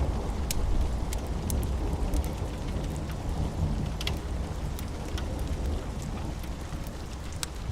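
Steady rain with a low rumble of thunder slowly dying away, and scattered sharp crackles from a wood fire.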